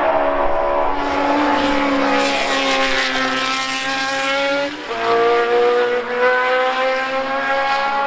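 Racing car engine at high revs on track, with a short dip and a drop in pitch about five seconds in as it shifts up a gear, then the pitch climbs again as it keeps accelerating.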